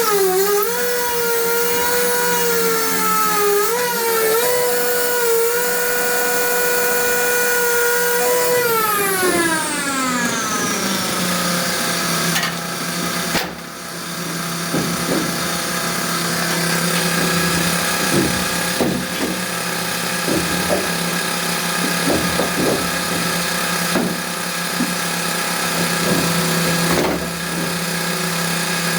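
A power tool's motor spins up fast, runs at a steady high pitch for about eight seconds, then winds down. It is followed by a steady lower hum with scattered short knocks.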